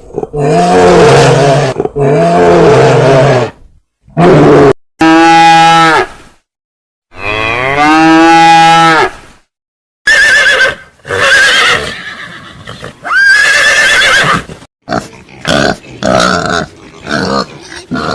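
A series of separate animal calls, each a drawn-out pitched cry with short silences between. The first several are long and low, and the later ones, from about ten seconds in, are shorter and higher.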